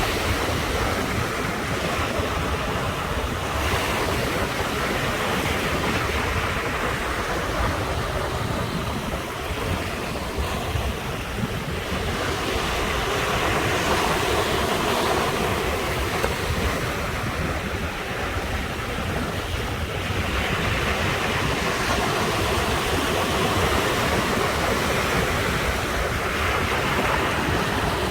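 Ocean surf breaking and washing ashore: a continuous rush of water that swells and eases every several seconds.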